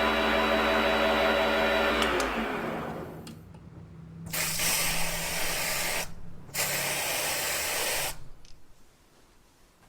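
A small motor runs steadily, then winds down and stops about two seconds in. This is followed by two separate hissing bursts, each about a second and a half long.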